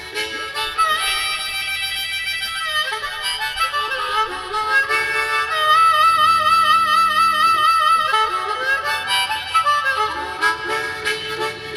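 Live band playing the instrumental intro of a song, a lead instrument holding sustained notes and a long note with vibrato in the middle, over low accompaniment.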